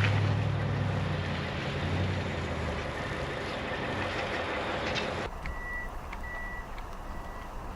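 Rumbling vehicle engine and outdoor noise, then an abrupt change about five seconds in to a vehicle's reversing alarm beeping steadily, about twice a second.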